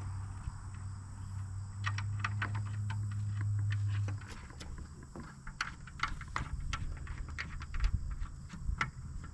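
Scattered metal clicks and clinks of hand tools and bolt hardware while a bearing is bolted onto a finish mower deck, over a low steady hum that stops about four seconds in.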